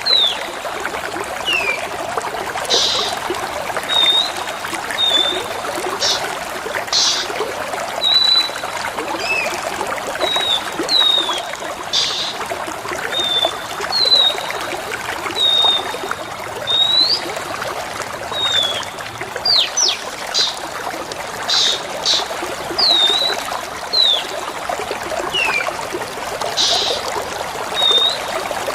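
Steady trickling water under repeated short bird calls: clipped high whistles and quick down-slurred notes, with brief harsh chattering bursts every second or two.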